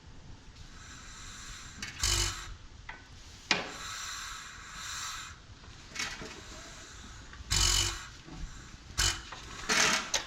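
Scraping and rubbing of stiff metal parts with several hard clunks as the 1927 Domestic Type F hit-and-miss engine is worked by hand. It is stuck and does not turn over or run.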